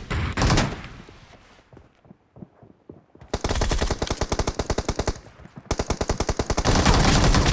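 Video-game automatic gunfire: a short burst, a lull of about two seconds, then two long bursts of rapid fire, the second running into dense, continuous firing near the end.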